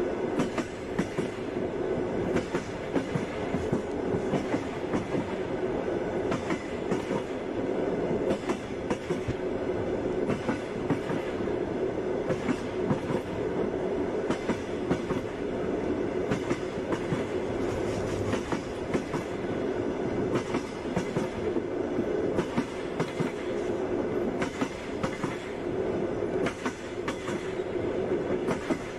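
Passenger train running steadily: a continuous rumble with wheels clattering over the rail joints, many sharp clacks throughout.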